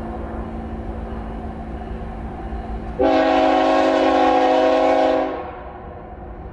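Diesel locomotive air horn sounding one long blast about three seconds in, a chord of several tones held for about two seconds, over the steady low rumble of the train.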